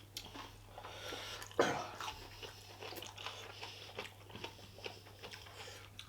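Close-miked mouth sounds of a person eating, chewing and smacking with many small irregular clicks, with one louder, short sound about one and a half seconds in.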